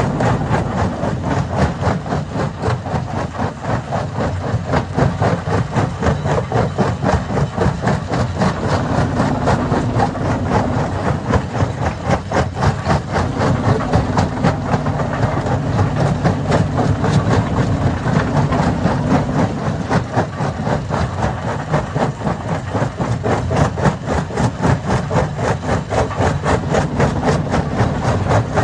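Hammer stone crusher running, with a fast, steady clatter of knocks over a low mechanical rumble.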